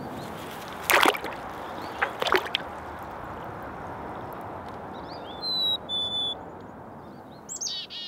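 Birds calling over a steady outdoor hiss: two held high whistled notes a little past the middle, then a quick run of chirps near the end. A few sharp, loud sounds stand out about one and two seconds in.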